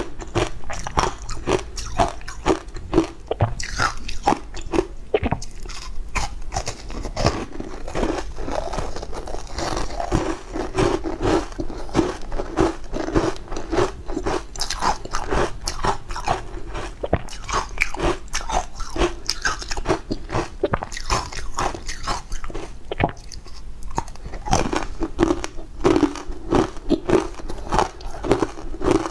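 A person biting and chewing crunchy green-powder-coated food close to a clip-on microphone: a continuous run of crisp crunches.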